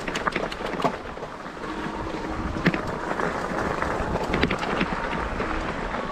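Steady hiss of e-bike tyres rolling on wet pavement, with wind buffeting the microphone and scattered light ticks.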